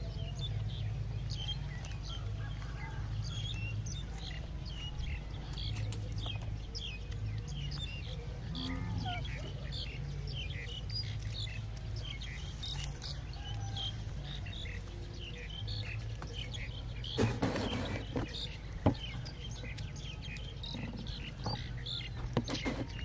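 Small birds chirping in quick, scattered short calls, over a steady low hum. About three-quarters of the way through there is a brief rustling burst and then a single sharp click.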